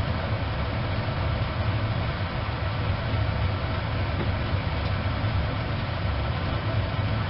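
Wood-burning stove fire burning with a steady rushing noise over a low rumble, with no crackles or pops.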